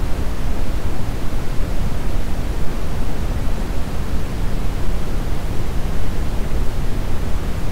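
Steady brown noise: an even, deep rumbling hiss with most of its energy in the low end, unchanging throughout.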